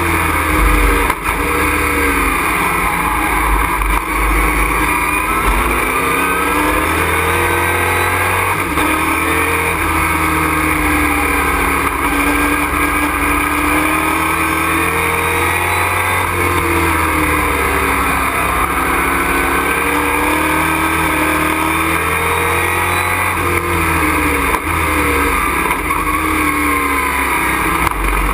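Race truck engine heard from inside the cockpit at racing speed, its pitch repeatedly climbing under acceleration and dropping away through shifts and braking.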